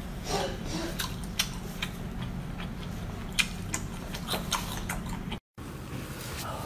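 Close-miked chewing and lip smacking of a person eating: irregular short wet clicks over a steady low hum, cutting out briefly about five and a half seconds in.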